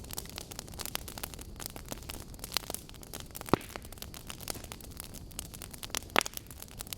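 Burning wood logs crackling steadily with dense irregular snaps, and two louder pops about three and a half seconds and six seconds in.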